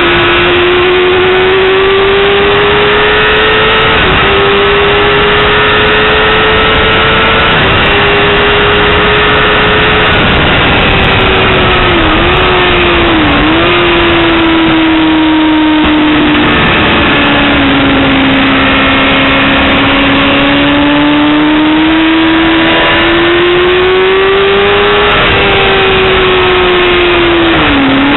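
Yamaha R6 (5EB) 600 cc inline-four sport bike engine at high revs under full throttle, heard onboard at speed over a steady rush of noise. The engine note climbs slowly and drops sharply at upshifts about 4, 7.5 and 10 seconds in, dips briefly twice around 12 to 13 seconds, falls to lower revs past the middle, then climbs again and dips once more near the end.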